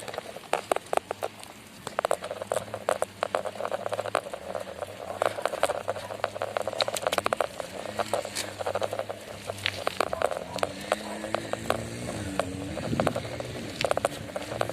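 Bicycle being ridden over a rough surface: tyre crunching with many irregular clicks and rattles. A wavering pitched sound runs from about ten to thirteen seconds in.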